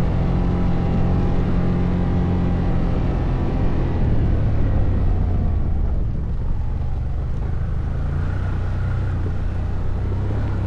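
ATV engine running under way off-road, its note dropping about four seconds in and the level easing off slightly about six seconds in.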